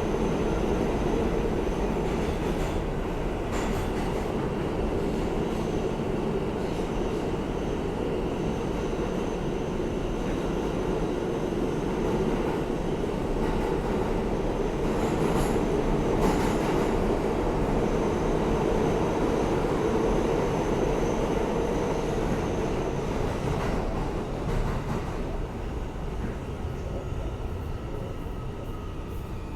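R160A-2 subway car running at speed, heard from inside: a steady rumble of wheels on rail with a faint high wheel squeal at times. The sound eases off over the last few seconds as the train begins to slow.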